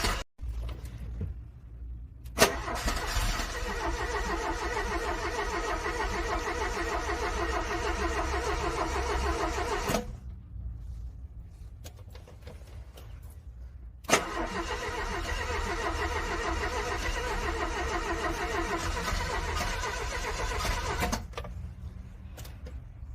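A cold car engine is cranked on its starter in two long attempts of about seven to eight seconds each. Each attempt begins with a sharp click and is a steady, rhythmic cranking. The cranking stops abruptly both times without the engine settling into an idle.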